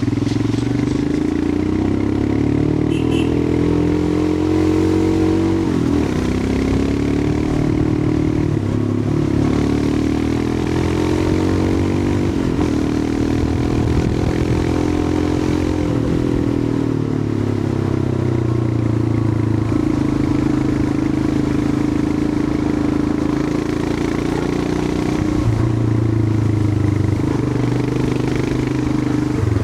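Royal Enfield Himalayan 411's air-cooled single-cylinder engine under way, its note climbing as it pulls and dropping back several times, then holding a steadier pitch through the second half.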